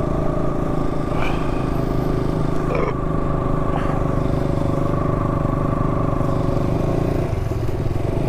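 KTM 200 Duke motorcycle's single-cylinder engine running at a steady cruising speed while riding, with a slight change in its tone about seven seconds in and a few faint clicks.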